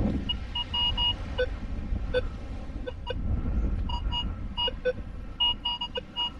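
Minelab Vanquish 440 metal detector beeping over a buried target, many short irregular beeps in a low and a higher pitch as the coil passes over it, the signal of a shallow metal object the detectorist takes for a bottle top. A low rumble runs underneath.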